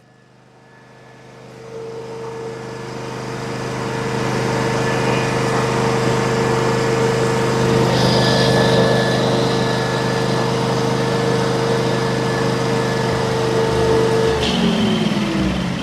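The Kohler engine of a Miller Trailblazer engine-driven welder runs at a steady speed with a steady whine, now starting and running after its no-start fault was fixed. Near the end its speed drops.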